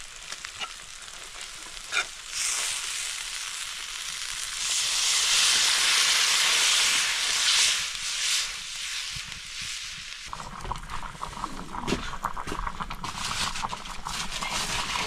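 Food frying in hot oil in a cooking pan: a sizzle that swells up a couple of seconds in, is loudest through the middle and dies down, followed by a steady crackling fry for the rest.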